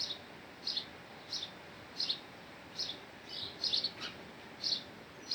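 A small bird chirping: short, high chirps repeated roughly every two-thirds of a second, about a dozen in all, a few of them doubled.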